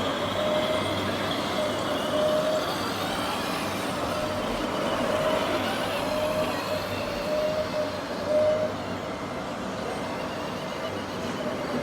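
Radio-controlled model truck or machine running, a steady mechanical noise with a mid-pitched whine that starts and stops several times.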